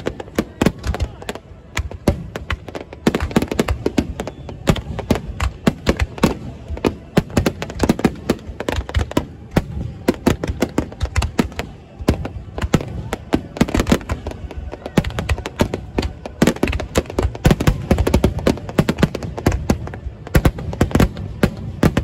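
Fireworks finale barrage of golden 'weeping cherry' (shidare-zakura) aerial shells: loud bursts following one another several times a second, with a low rumble under them and hardly a pause.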